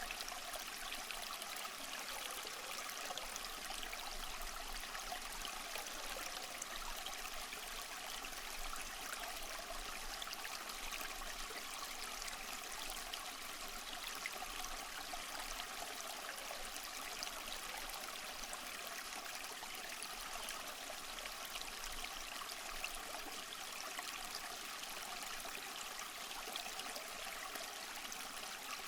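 Small stream flowing, a steady babbling and trickling of water over stones.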